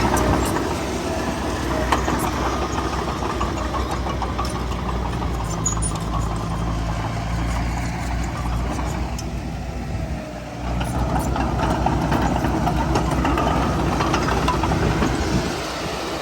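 Heavy diesel engine of earthmoving machinery running steadily, dipping briefly about two-thirds of the way through before coming back up.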